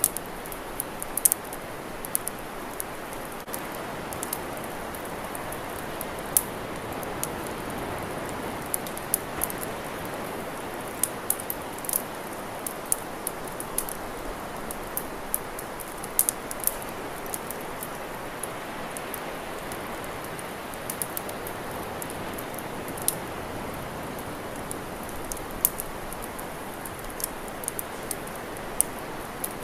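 Wood campfire crackling, with frequent irregular sharp pops and snaps over a steady rushing hiss.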